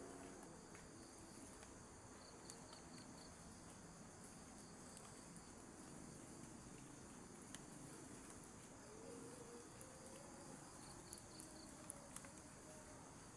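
Faint forest ambience of insects trilling steadily, with two short chirps of about four quick pulses each and a few sharp ticks scattered through.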